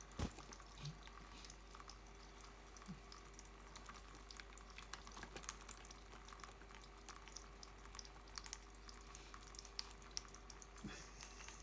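Budgerigar bathing in water: faint, scattered small splashes and drips.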